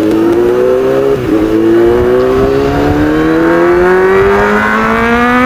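Kawasaki Z800's inline-four engine through an aftermarket racing exhaust, accelerating hard. The revs climb, dip sharply at an upshift about a second in, then climb steadily again through the next gear.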